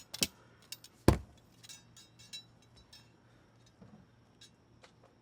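Drinking glasses clinking and being set down on a table, with one heavy knock about a second in and lighter taps of glassware and tableware after it.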